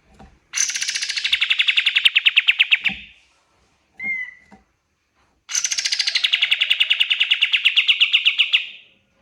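Kapas tembak songbird singing: two long, rapid trills of about a dozen evenly spaced notes a second, each starting high and settling lower, with a short single call between them.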